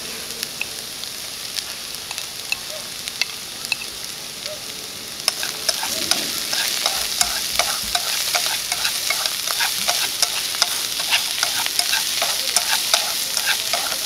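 Diced potatoes and mushrooms sizzling in hot oil in a frying pan, growing louder about five seconds in as they are stirred with chopsticks, with many light clicks and taps of the chopsticks against the pan.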